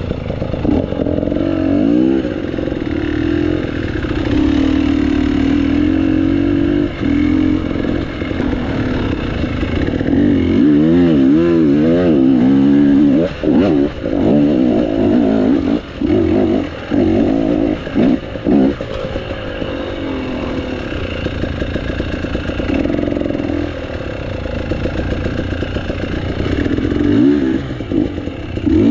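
Dirt bike engine running under load, its note rising and falling as the throttle is opened and closed, with several brief drops off the throttle around the middle.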